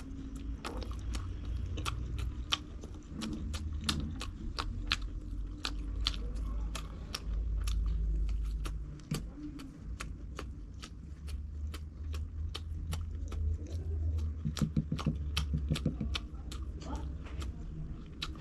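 Close-up chewing of crisp fried food: a steady run of sharp crunches, about three a second, over a low rumble.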